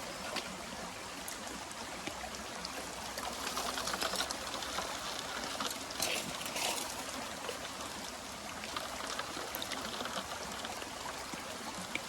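Running water at a steady level, with a few brief splashes or knocks.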